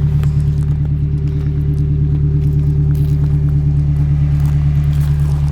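Nissan 240SX's 2.4-litre four-cylinder engine idling steadily with its muffler cut off, giving a loud, even exhaust rumble.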